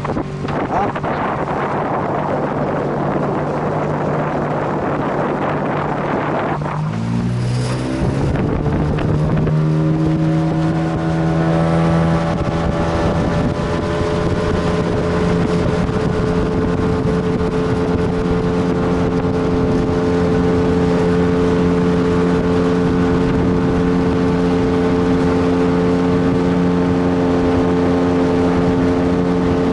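Boat motor running under a rush of wind and water; about seven seconds in its pitch climbs as it speeds up, then it settles into a steady even drone.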